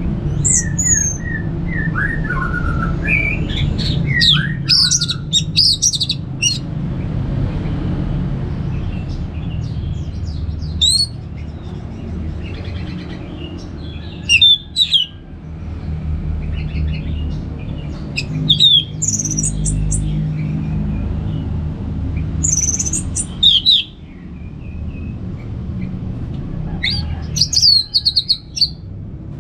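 Orange-headed thrush singing: a phrase of quick, varied whistles and trills every few seconds, over a steady low rumble.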